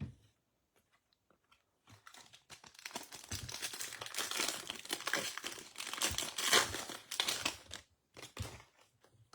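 Foil trading-card pack wrapper being torn open and crinkled, a dense crackling that builds about two seconds in and lasts some six seconds, with a few light clicks as it dies away.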